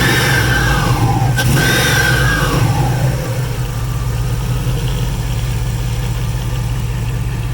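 Procharger-supercharged 5.9-litre V8 of a 2000 Dodge Dakota R/T, heard through its exhaust: it falls back from a rev, is revved again about a second and a half in, rising and falling in pitch, then settles to a steady idle.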